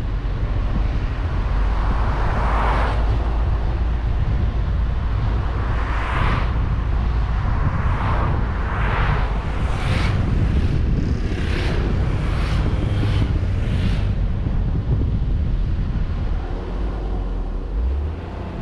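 Wind buffeting a suction-cup-mounted GoPro on a moving car, over a heavy low driving rumble. A run of short whooshes comes through the middle, faster and closer together toward the end of the run, then only the rumble remains.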